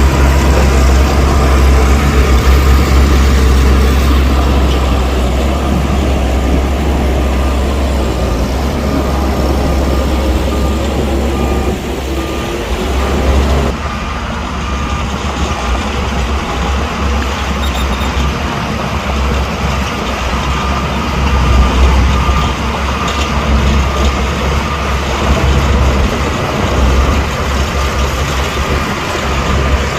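Heavy diesel earthmoving machinery running, with a steady deep engine drone. The sound changes abruptly about halfway through.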